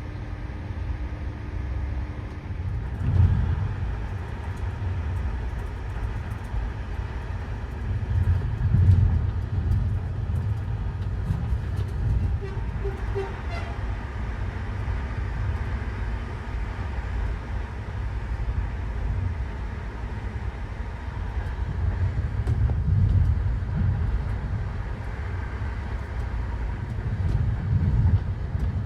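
Steady low rumble of a moving vehicle, swelling louder a few times, with a few faint short tones partway through.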